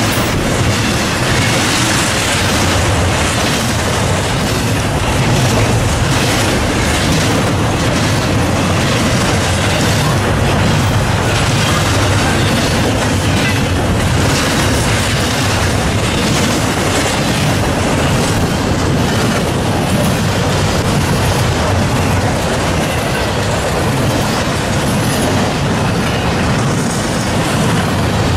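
Norfolk Southern freight train cars passing, a loud steady rolling noise with the wheels clicking over the rail joints.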